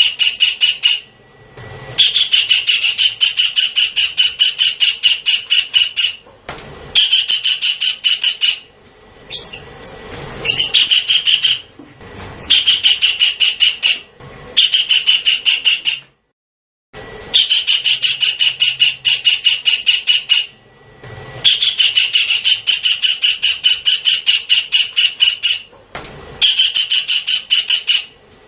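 Javan kingfisher calling: fast runs of loud, harsh repeated notes, about five a second, each run lasting a few seconds with short breaks between. It is a recorded lure call.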